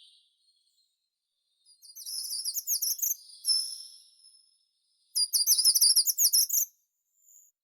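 A songbird singing two quick phrases of rapidly repeated high notes, the first about two seconds in and the second about five seconds in.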